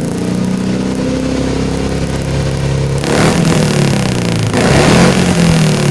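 Suzuki Carry injection engine running through a custom exhaust with a 431-type header and a Remus muffler: steady idle, then the throttle is blipped twice, about three seconds in and again a second and a half later, the pitch rising and falling back to idle each time.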